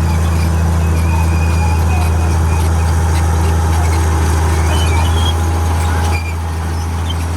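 Komatsu D58E bulldozer's diesel engine running steadily with a deep, even hum. Its level drops a little about six seconds in.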